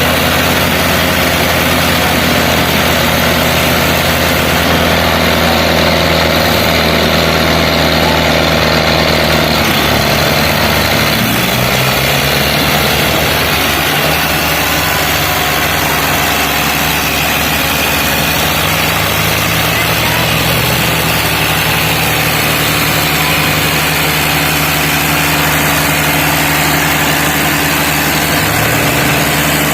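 Diesel tractor engines running hard under load, a steady heavy drone whose pitch shifts up and down a few times as the throttle changes.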